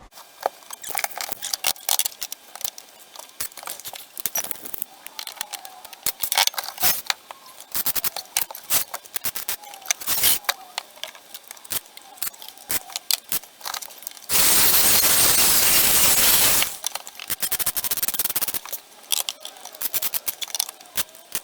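Metal tools and pieces being handled on a workbench: irregular clinks, knocks and scrapes. About two-thirds of the way in, a steady hissing noise lasts a little over two seconds, then cuts off.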